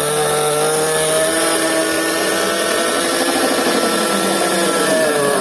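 Small glow-fuel (nitro) engine of a radio-controlled monster truck running steadily at a constant speed, its pitch dipping slightly near the end.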